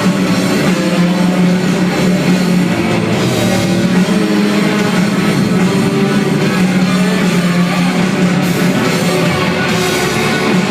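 Rock band playing live, with electric guitar and drums and a steady low note held underneath; no singing.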